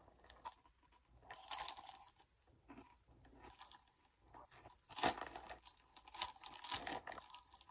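Crunchy Funyuns snack rings being bitten and chewed, with irregular crunching bursts, and the snack bag crinkling as it is handled.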